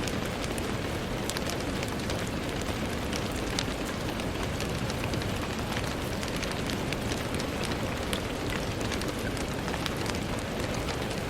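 Steady rain falling on a window: a constant hiss with many small, sharp drop ticks scattered through it.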